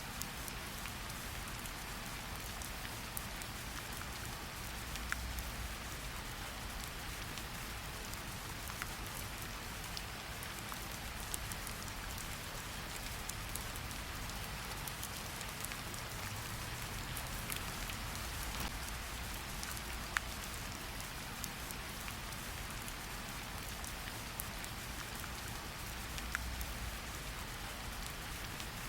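Steady rain hiss with a low rumble underneath, broken every few seconds by single sharp pops of a crackling wood fire.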